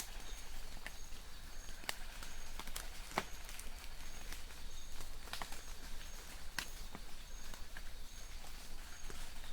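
Light rain in a forest: scattered drops tick and patter over a soft hiss. A distant bird repeats a short high note steadily, about every two-thirds of a second.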